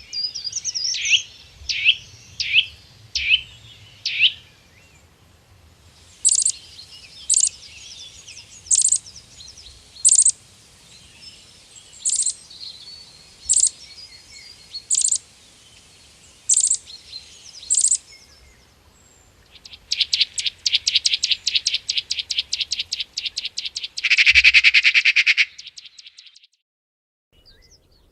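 Calls of several different birds in turn: a short run of about five falling notes, then a sharp high note repeated about every second and a half, then a fast trill of rapid notes ending in a louder, noisier burst.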